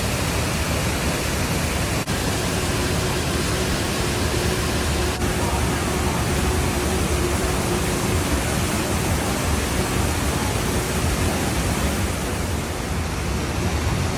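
Waterfall's rushing water: a steady, even hiss and rumble with no breaks.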